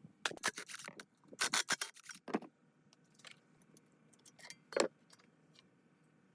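Handling clatter: a quick run of short clinks and scrapes in the first two and a half seconds, a few lighter ticks, then one louder knock a little before five seconds in.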